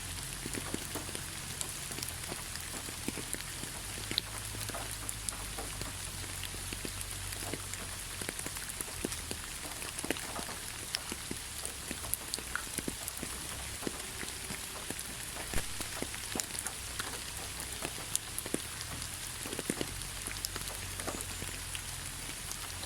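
Heavy rain falling steadily: a dense, even hiss with many sharp individual drop impacts scattered through it and a low steady rumble underneath.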